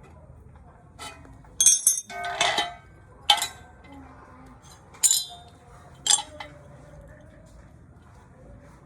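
Pieces of cut aluminium profile being handled, knocking and clinking together about six times, each a sharp metallic clink with a brief ring.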